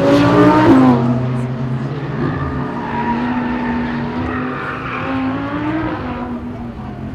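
A car engine revved, its note falling back within the first second, then held at a steady engine note for about five seconds before dying away near the end.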